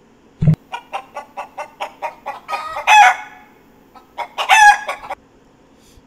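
A chicken clucking: a quick run of short clucks, then two louder, longer calls. A short thump comes about half a second in.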